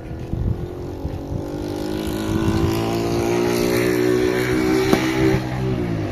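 An engine running and revving up, its pitch climbing slowly over about four seconds, then dropping back near the end.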